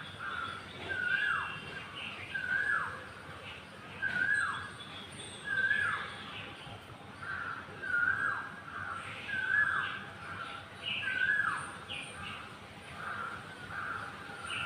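A bird repeatedly gives a short call that drops sharply in pitch, about once every second and a half. Other birds chirp higher and more faintly in between.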